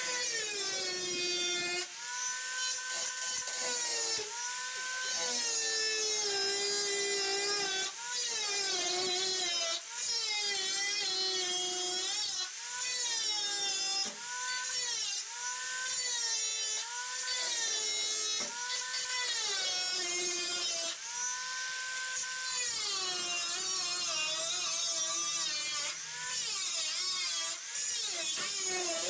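Power drill run in short repeated bursts, its motor whining up to speed, holding, then winding down, about once every second or two.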